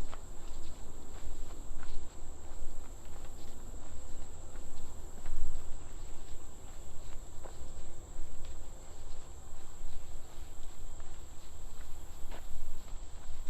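Steady high-pitched drone of insects calling in the trail-side vegetation, under footsteps on the trail and a low, uneven rumble of the walk and breeze on the microphone.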